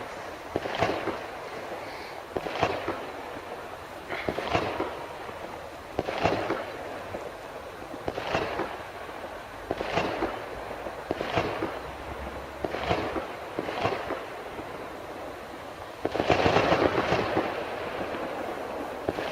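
Explosive bangs going off one after another, about every one and a half to two seconds, each trailing off in an echo, then a louder, denser run of bangs near the end. They are typical of fireworks, which the person filming suggests they may be.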